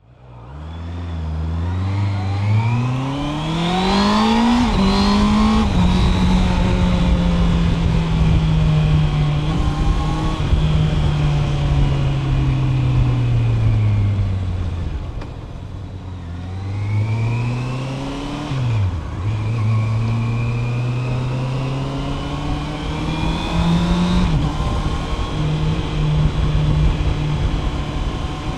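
Honda CB650R's 649 cc inline-four, fitted with a DNA air filter, pulling away and revving up through the gears; its pitch climbs steeply at first, then it cruises. It eases off gradually and slows, then accelerates again, with quick drops in pitch at the upshifts. Underneath is a steady rush of wind and road noise from riding.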